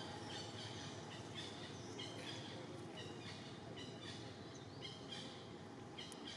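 Birds chirping faintly, short high calls repeating every half second or so, over a steady outdoor background hiss.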